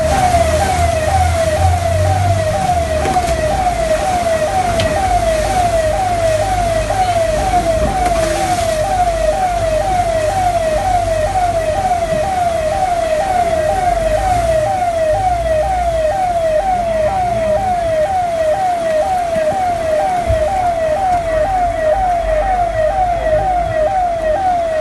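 Siren sounding a fast, repeating falling wail, about two falls a second, at a steady pitch and pace, over a low rumble.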